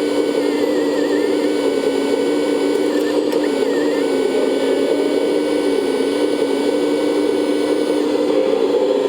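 Small electric motor of a 1/14-scale RC construction model running steadily with a constant whine.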